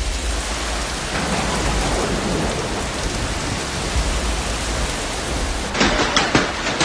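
Storm wind and heavy rain, a steady loud rushing noise. Near the end it changes abruptly to rapid crackling and rattling knocks over the rushing.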